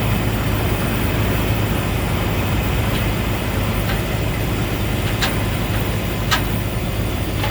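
Steady highway traffic noise: vehicle engines and tyres running, with a continuous low engine hum and a few faint clicks.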